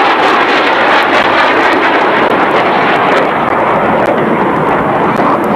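Loud, steady rushing noise of an aircraft's engines, easing slightly in the second half.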